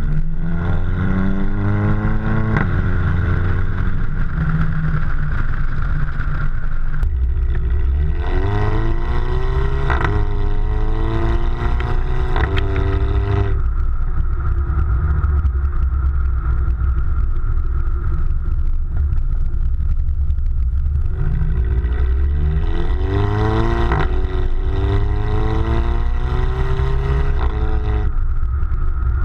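Exhaust of a VW Beetle 2.0 TSI turbocharged four-cylinder with its centre silencer replaced by a straight dummy pipe, accelerating hard three times. Each time the pitch climbs, drops back at a gear change and climbs again, with steady cruising in between.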